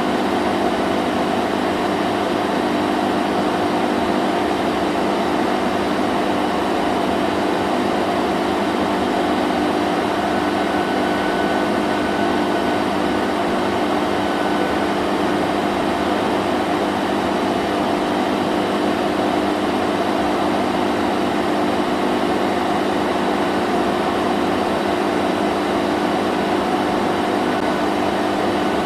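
Vacuum cleaner running continuously: a steady motor drone with a rushing air noise and a few steady hum tones, not changing.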